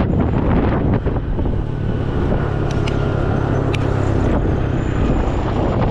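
Riding a Honda Zoomer-X scooter in traffic: wind buffeting the microphone over a steady engine hum, with a few short sharp ticks in the middle.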